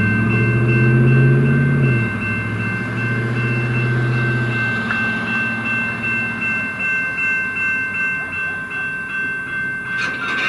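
A train passing, its diesel locomotive engine running hard and then fading away after a few seconds. A steady high-pitched ringing tone runs through it, and a regular rhythmic clatter follows in the second half, with a brief sharp crash near the end.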